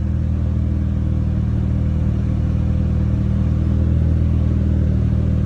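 Hyundai Veloster N's brand-new 2.0-litre turbocharged four-cylinder engine idling steadily just after its first start-up.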